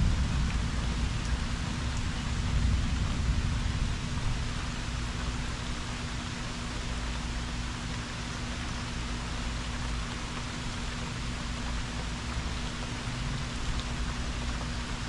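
Steady rain falling hard, with a low rumble of thunder that fades over the first few seconds.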